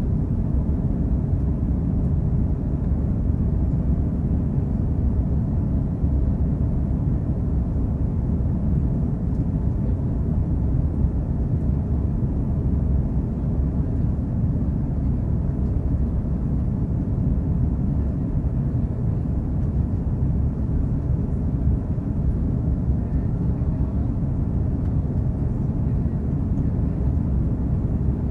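Steady low rumble of an Airbus A330-300's Rolls-Royce Trent 700 jet engines and airflow, heard from inside the passenger cabin, with a faint steady whine above it.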